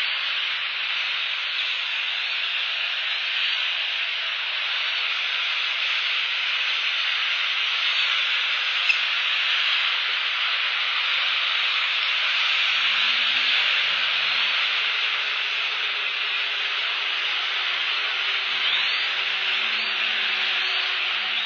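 Steady heavy rain falling on the nest, heard as an even hiss through the nest cam's microphone.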